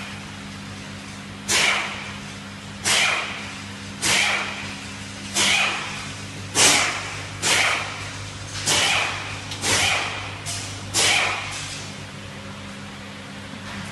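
About ten short bursts of rushing spray from a car wash machine's nozzle, each starting suddenly and fading within half a second, roughly one a second, stopping near the end. A steady machine hum runs underneath.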